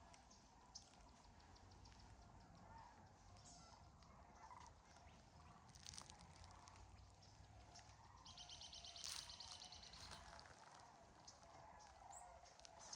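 Faint mix of wild birds calling: scattered chirps and whistles, with a rapid trill about eight seconds in. A low steady hum lies underneath and fades out near the end.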